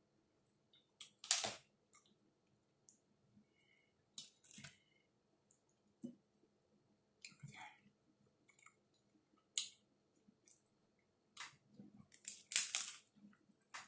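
A person eating tacos: short, crisp bites and chewing noises every second or two, with a louder cluster near the end.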